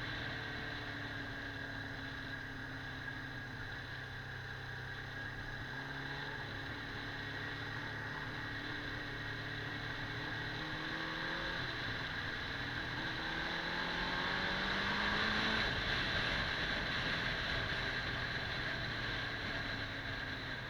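Kawasaki 400 cc motorcycle engine running under way over a steady rushing hiss. It climbs in pitch and loudness for several seconds, then drops sharply about fifteen seconds in, as the throttle eases or a gear changes.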